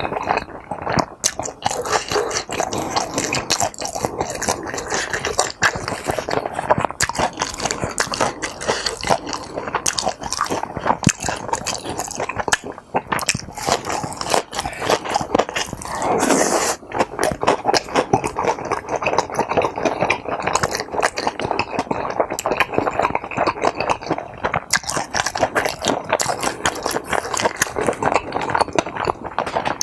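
Close-miked chewing and biting of tteokbokki rice cakes and kimbap, with dense, rapid mouth clicks throughout and a brief louder stretch a little past halfway.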